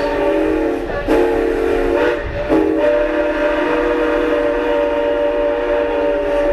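Chime steam whistle of ex-Canadian National 2-6-0 steam locomotive No. 89 blowing a loud, steady chord, heard from the train behind it. It sounds in two longs, a short and a long held note, the pattern of a grade-crossing signal.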